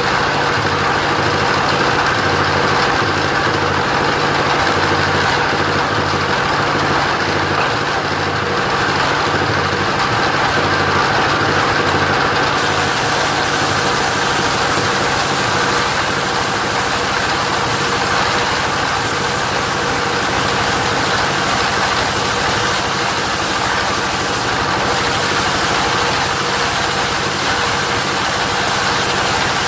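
Engine of a portable sawmill running steadily, with a high hiss that grows stronger about twelve seconds in.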